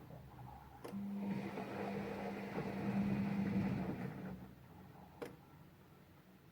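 Whirlpool AWE6316 washing machine running a test-mode step: a motor hums steadily, cutting in with a click about a second in and dying away after about four seconds. A second sharp click comes near five seconds.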